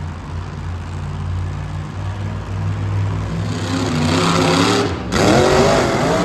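Monster truck engine running, its revs climbing from about three and a half seconds in, then revving hard up and down near the end, the loudest part.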